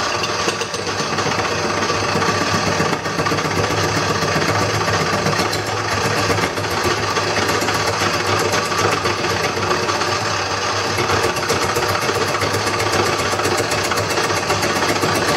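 Wood lathe running steadily: a motor hum with a fast, even rattle from the spinning workpiece.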